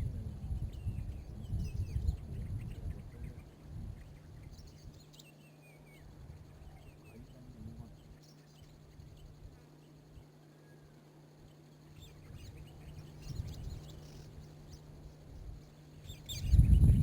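Outdoor ambience with scattered short bird calls. A low rumble is heavy for the first few seconds, then returns strongly near the end.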